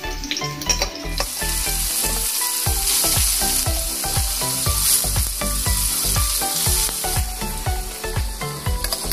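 Paneer cubes sizzling steadily as they shallow-fry in hot white oil in a steel kadai, the sizzle coming up strongly about a second in.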